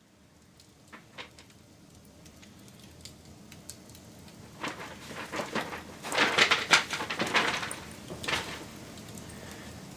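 Wood campfire crackling and popping, building from a few scattered snaps to a dense run of loud crackles about halfway through, then settling to a softer hiss.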